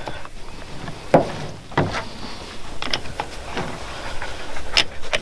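A scrench working the bar nuts of a chainsaw, making a handful of separate metallic clicks and knocks as the nuts are loosened a little to let the chain be tensioned.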